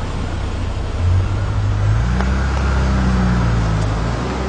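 Taxi's car engine pulling away, rising in pitch as it accelerates about a second in, then fading as it drives off.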